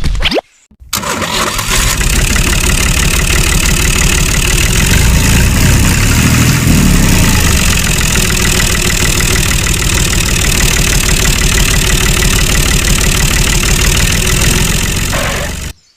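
A small engine running steadily at a fast, even beat. It starts abruptly about a second in and cuts off suddenly near the end.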